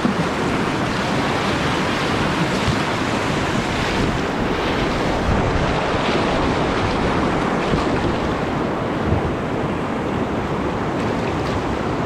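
Whitewater rushing steadily through a river rapid, a constant even roar of moving water.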